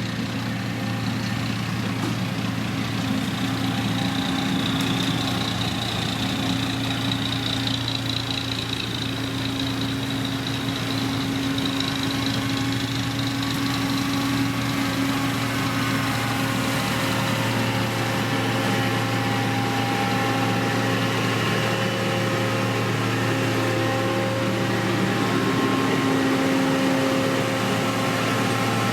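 Diesel engine of heavy road-construction machinery running steadily, a constant low hum with higher tones that come and go and shift slightly in pitch.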